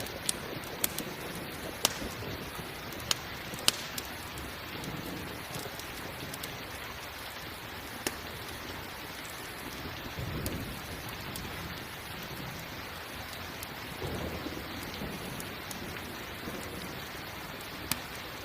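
Steady rain with a few sharp pops of a crackling campfire, most of them in the first few seconds, and low rolls of thunder rumbling twice in the middle.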